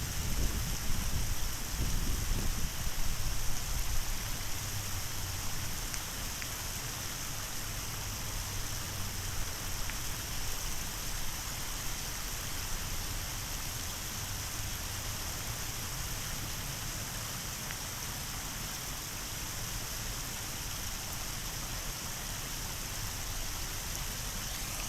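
Steady rush of running water from a small waterfall, with some low rumbling bumps over the first few seconds.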